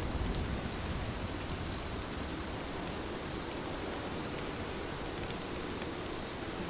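Heavy rain falling steadily, an even hiss with scattered drops ticking on a surface.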